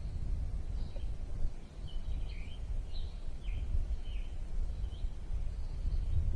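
Birds chirping outdoors in short, separate notes over a steady low rumble.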